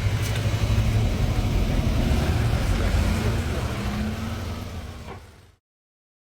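Loud, steady outdoor rumble with strong low-end noise that fades out and cuts to silence about five and a half seconds in.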